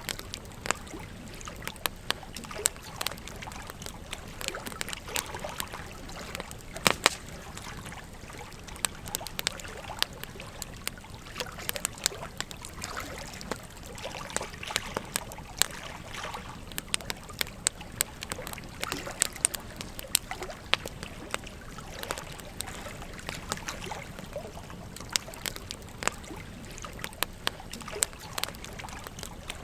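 Campfire crackling with frequent irregular sharp pops, one louder snap about seven seconds in, over the steady trickle of a gentle stream.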